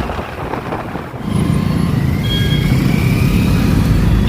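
Road traffic heard from a moving motorcycle: a loud, steady low engine rumble sets in about a second in, with a faint rising whine over it.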